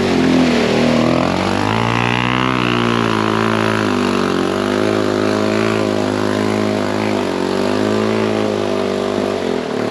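Yamaha TW200's single-cylinder four-stroke engine held at high revs under load for several seconds, its pitch wavering slightly up and down, as the bike is driven flat out through slippery mud.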